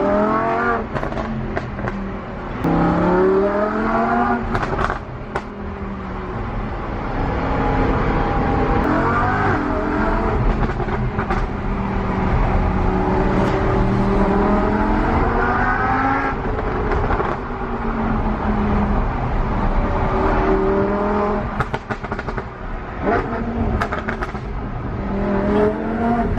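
Lamborghini Huracán LP610-4's V10 through a full iPE exhaust with the valves open in Sport mode, accelerating hard several times. The pitch rises through the revs and drops again, with sharp cracks from the exhaust in between.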